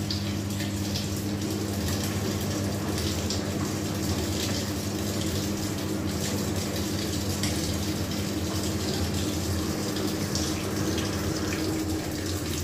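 Samsung 10 kg top-load washing machine filling its tub with water at the start of an Eco Tub Clean cycle: a steady rush of inflowing water over a constant low hum.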